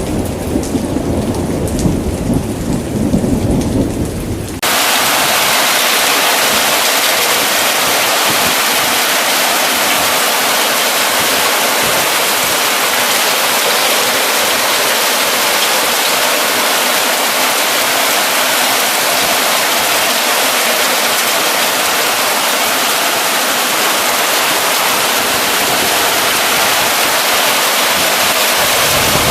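Thunder rumbling loud and low, cut off abruptly about four and a half seconds in by the steady, dense hiss of heavy rain pouring down, which then runs on unchanged.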